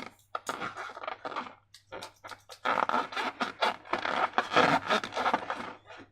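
Slime being squeezed and worked by hand, making sticky clicking, crackling squelches in quick runs, with a short pause about two seconds in.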